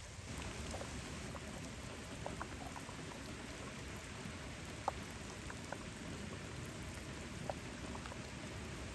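Steady rain falling, with louder single drops now and then.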